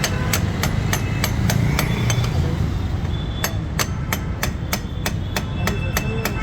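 A hammer striking repeatedly and evenly, about three blows a second, with a short break about halfway through, over a steady low background rumble.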